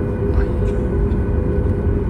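Boeing 737 MAX 8 taxiing, heard inside the cabin: its CFM LEAP-1B engines run at low power, giving a steady low rumble with a steady hum of several tones over it.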